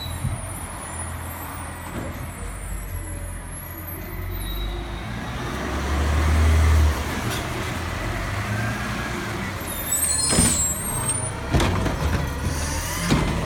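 Garbage truck's diesel engine rumbling, swelling louder about halfway through and then settling. Near the end come two sharp air hisses, typical of the truck's air brakes.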